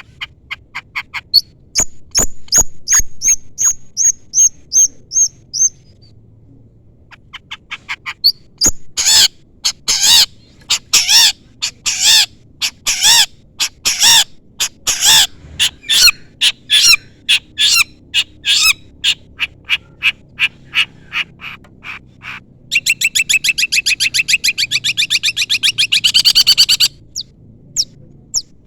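Long-tailed shrike song of loud, sharp chirps and high whistled notes: challenging calls aimed at a rival bird. There is a short pause about six seconds in, and a fast, unbroken trill of about four seconds near the end.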